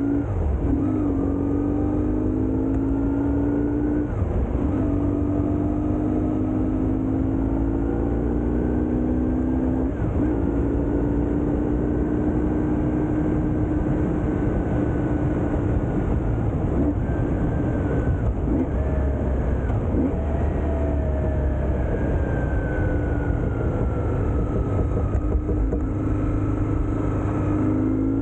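BMW R1150GS Adventure's boxer-twin engine heard from on board, pulling up through the gears: the pitch climbs and drops back at each shift in the first ten seconds, then holds steady before easing off and climbing again near the end. A steady low rush of wind and road noise runs underneath.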